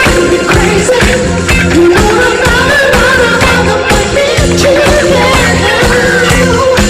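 Live concert recording of a Korean pop song: a male lead vocal holding long, wavering notes over a band with a steady beat.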